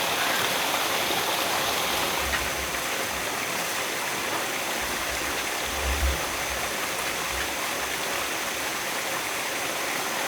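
A steady rushing noise, with a few dull low thumps about two seconds in and again near the middle.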